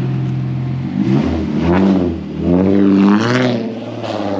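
A car engine idling, then revved twice, its pitch climbing and falling back each time, the first rev about a second in and the second a second and a half later.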